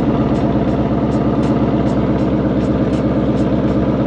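Ford Mustang engine idling steadily through a newly fitted Corsa Extreme cat-back exhaust, its exhaust valves closed.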